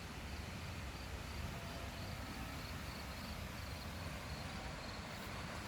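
Crickets chirping in a regular repeating rhythm over a steady background rush of a river.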